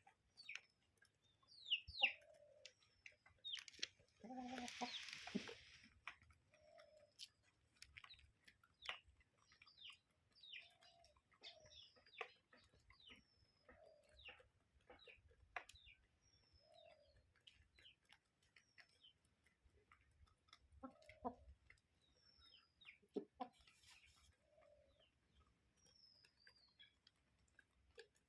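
Chickens clucking softly over and over, mixed with short high chirps and scattered small clicks and scratches, with a brief rustle about five seconds in.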